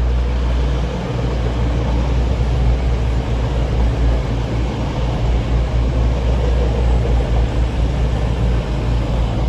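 Class 222 Meridian diesel multiple unit running slowly past, its diesel engines giving a steady low hum under loud running noise.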